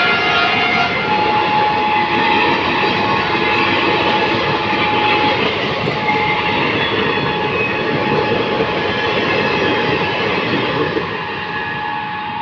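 Express train rolling past on the rails: a steady, loud rumble of wheels on track with a few faint high tones. It eases off a little near the end.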